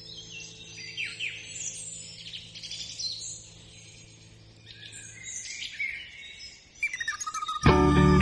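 Songbirds chirping and warbling over a faint, low held drone that fades out about five seconds in. Near the end, louder music with plucked guitar comes in.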